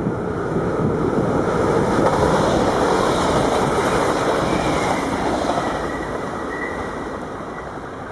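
A train passing through a station at speed: a rushing rumble of wheels on rail that swells, holds for a few seconds and slowly fades, with a faint high whine near the end.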